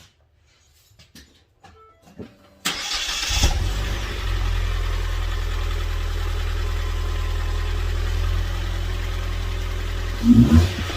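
2015 Ford Fiesta SE's 1.6-litre four-cylinder engine on its stock exhaust. After a few faint clicks it starts about three seconds in, with a brief burst as it catches, and settles to a steady idle. A short rev comes near the end.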